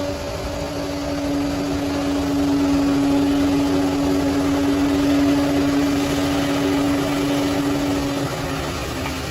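Bulldozer's diesel engine running steadily under load, growing louder over the first few seconds and easing off about a second before the end.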